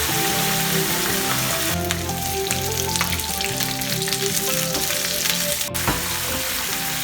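Food sizzling and crackling in hot oil, starting about two seconds in and cutting off abruptly near six seconds, over background music.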